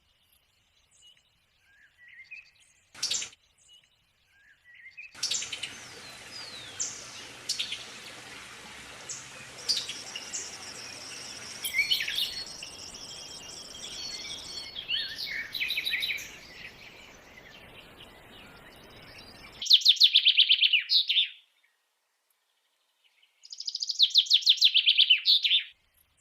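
Birds chirping and calling in short, abruptly cut segments over a background hiss, ending with two loud, rapid trills.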